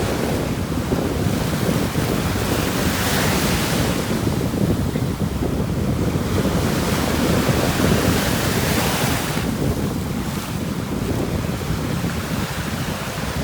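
Ocean surf breaking and washing ashore, with wind rumbling on the microphone. The hiss of the wash swells about three seconds in and again for a few seconds around the middle.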